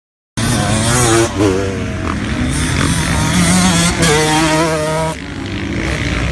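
Motocross dirt bike engine running loud and being revved, its pitch rising and falling repeatedly over a steadier low note. It starts suddenly just under half a second in.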